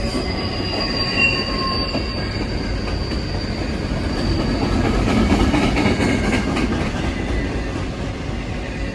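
A train's cars rolling past with a low rumble and steady high-pitched wheel squeal from the rails, growing a little louder about halfway through.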